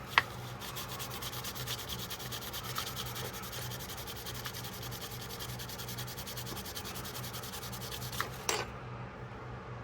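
Fine sandpaper rubbed by hand in quick, even back-and-forth strokes on the steel of a 1973 Case XX jackknife, taking off rust. A sharp click comes just after the start, and two knocks come near the end as the strokes stop.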